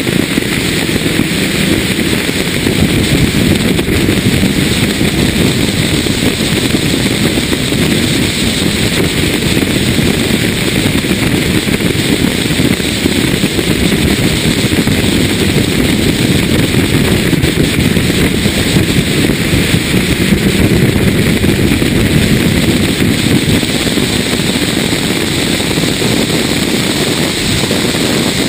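BMW E36 M3's straight-six engine running hard at speed on a race circuit, heard through the onboard camera with heavy wind and road rush; the sound stays loud and steady.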